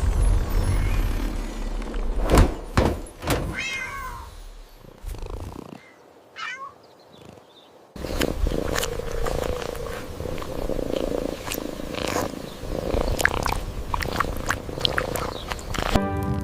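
A cat meowing, with a couple of sharp knocks. About eight seconds in, a steady noisy background with a low hum and scattered clicks starts abruptly.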